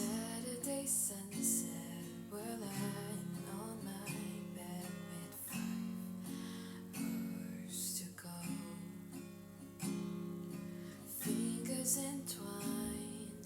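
Acoustic guitar strummed in a steady chord pattern, accompanying a slow pop song.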